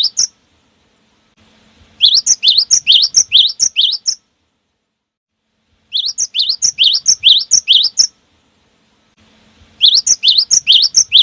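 Cinereous tit (gelatik batu) singing in bursts of about two seconds, each a fast run of about six sharp rising whistled notes a second, with silent gaps between the bursts. This is a lure song meant to set other birds of its kind singing.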